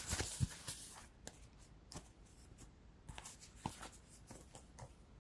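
Tarot cards being shuffled and handled: a brief burst of riffling in the first second, then scattered light card clicks and rustles.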